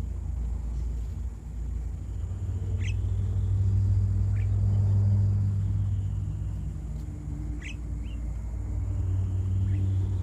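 A low engine drone that swells and fades twice, with a few short, high bird chirps over it.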